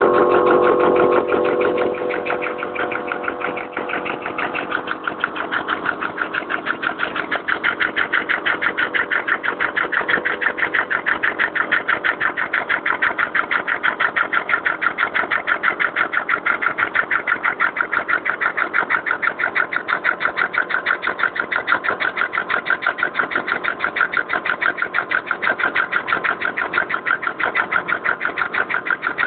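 Two-stroke motorcycle engine converted to run on compressed air, running steadily with a fast, even pulsing clatter. A whistling tone is mixed in at the start and fades out within the first few seconds.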